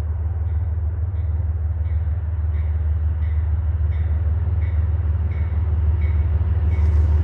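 A train's locomotive rumbling low and steady as it approaches, growing gradually louder, with a bell ringing faintly in a steady rhythm about every two-thirds of a second.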